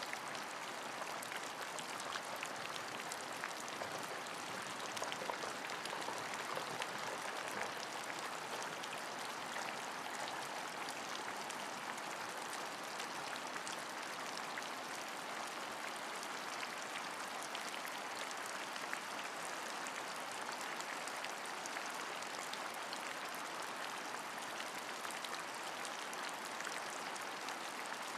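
Steady rain, an even hiss with many small drops ticking through it.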